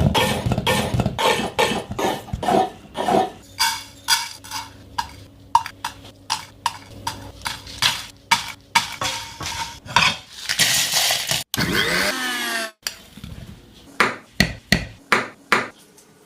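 Kitchen clatter of utensils and cookware: a run of sharp knocks and clinks, dense at first and then spaced about twice a second, with a short hiss a little past the middle.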